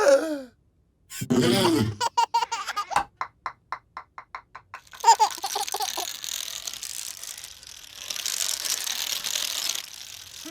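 Cartoon soundtrack with a baby laughing in a quick string of short giggles, followed by a steady hissing noise for several seconds.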